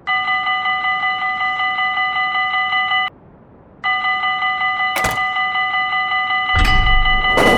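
Level crossing warning bell ringing rapidly, about four strokes a second. It pauses for under a second partway through, then resumes. A sharp click follows about five seconds in, and drum-led music starts near the end.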